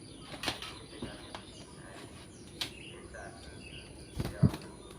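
Faint short chirps of a yellow-vented bulbul over outdoor background noise. A few knocks break in, the loudest a low thump about four and a half seconds in.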